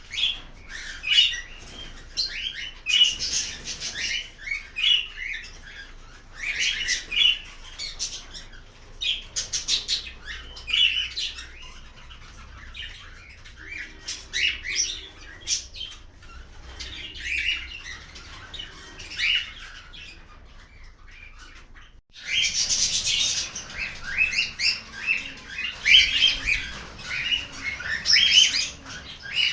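A flock of cockatiels chirping and whistling over one another, many short calls overlapping. About two-thirds of the way through the sound breaks off for a moment, then the calls come back louder.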